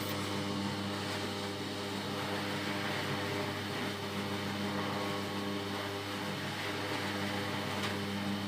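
Electric motor on a țuică still running steadily, giving an even hum with no change in speed.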